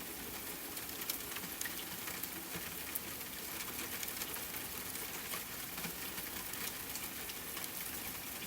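Steady rain falling, with many separate drops ticking sharply through an even hiss.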